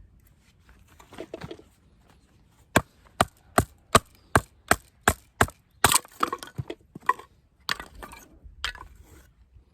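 Batoning with a Helle knife: a baton strikes the knife's spine about eight times in quick, even succession, driving the blade into the wood, followed by a few irregular cracks as the wood splits.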